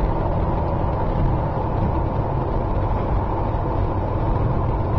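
Steady drone of a moving vehicle heard from inside the cabin: engine and tyres on a rain-wet road, low and even throughout.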